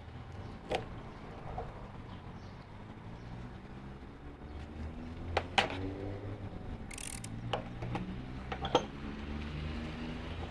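An engine running steadily at low speed, with a low rumble that drifts a little in pitch. Sharp clicks or knocks come over it about a second in, once in the middle and again near the end.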